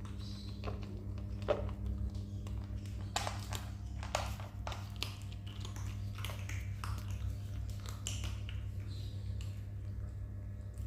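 Kittens eating and scrambling over food, with irregular small clicks and taps of chewing and food on a dish, over a steady low hum.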